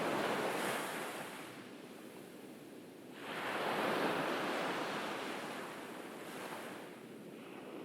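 Gentle ocean waves washing onto a beach: one wash fades over the first two seconds, a new wave surges in sharply about three seconds in and slowly ebbs, and a smaller one follows near the end.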